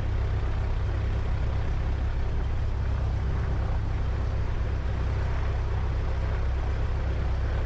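Cessna 172's piston engine idling with a steady low drone while the plane holds short of the runway awaiting takeoff clearance.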